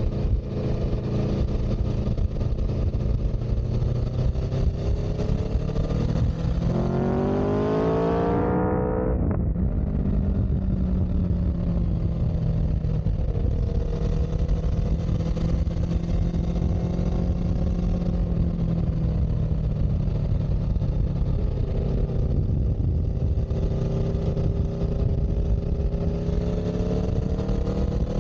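A vehicle engine running under way. About seven seconds in it revs up with rising pitch, then drops off sharply as if the throttle closes or a gear changes. It then runs steady and climbs again slowly near the end.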